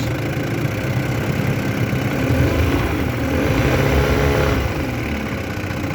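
Restored 1958 Mercury Mark 25 two-stroke outboard motor running in reverse gear, its note swelling slightly a couple of seconds in and then easing back.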